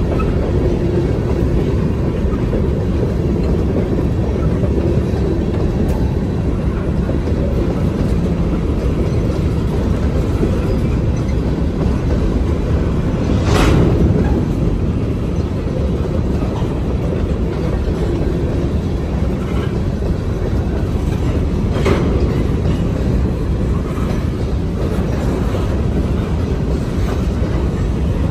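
Freight train rolling by: a steady low rumble of wheels on rail, with a sharp metallic clank about halfway through and another about eight seconds later.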